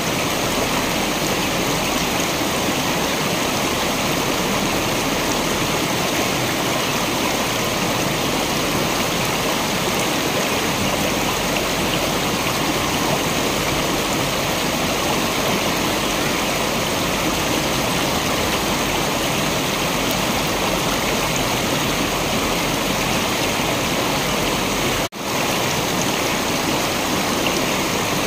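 Steady rushing water of a waterfall, an even wash of noise with no change, broken by a split-second dropout about 25 seconds in.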